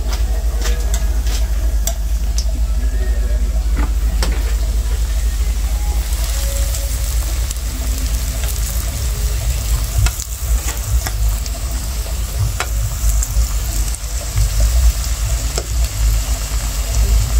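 Bammy (cassava flatbread) shallow-frying in hot oil in a frying pan: a steady sizzle with scattered sharp crackles, over a steady low rumble.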